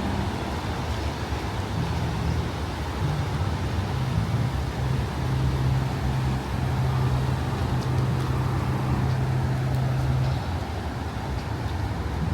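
A motor vehicle's engine hums steadily at a low pitch and fades out about ten seconds in, over a constant hiss of surf and wind.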